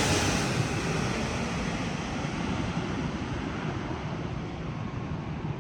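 Jet engines of an arriving Boeing 777 freighter fading away after passing, a steady rushing noise that grows quieter, its hiss dying out first.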